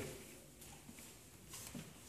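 Quiet room tone in an empty room, with one faint soft thump about three quarters of the way through.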